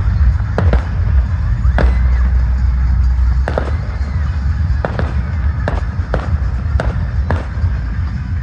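Fireworks display: a string of sharp bangs from bursting shells, one or two a second, over a steady low rumble.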